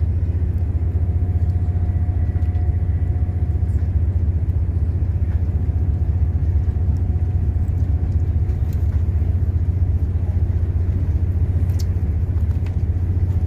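Steady low rumble of a passenger train running along the track, heard from inside the carriage, with a faint thin tone that comes and goes.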